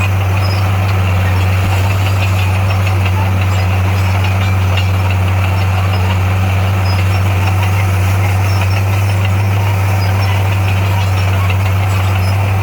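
Heavy earthmoving machine's diesel engine running steadily, a deep unbroken drone.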